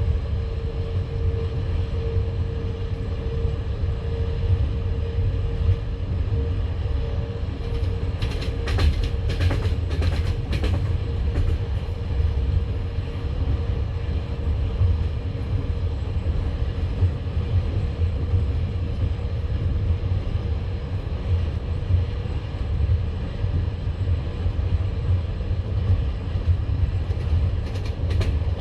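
Passenger train carriage rolling along the line: a steady low rumble of wheels on rail, with a quick run of sharp wheel knocks over rail joints about eight to ten seconds in and a few more near the end.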